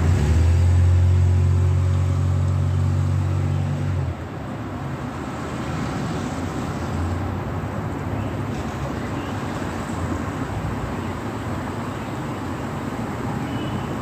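Road traffic in light rain: a steady hiss, with a loud low vehicle engine rumble for the first four seconds that cuts off suddenly.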